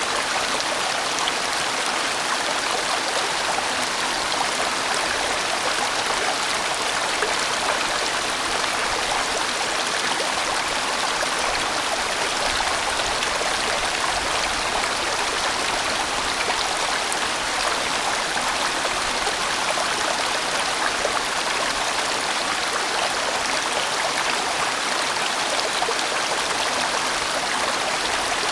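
A large mountain valley stream rushing and splashing over rocks in a steady, full wash of water noise.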